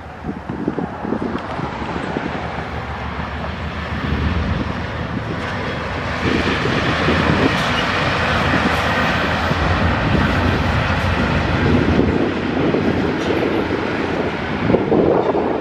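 Diesel locomotives of a Norfolk Southern double-stack intermodal freight train passing close by, with engine rumble and wheel-on-rail noise. The sound grows louder over the first several seconds as the train arrives, and the first stack cars roll by near the end.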